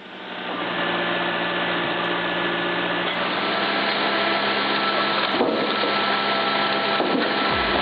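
Firewood processing machine running steadily with an even mechanical hum, and two light knocks around five and seven seconds in.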